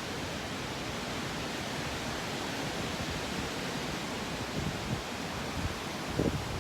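Steady, even hiss of background noise, with a few faint low bumps near the end.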